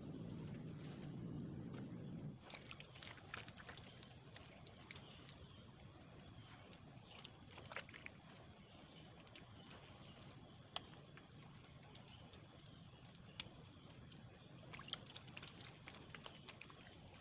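Quiet forest ambience: a steady high-pitched insect drone, with scattered faint clicks and rustles. A low rumbling noise stops suddenly about two seconds in.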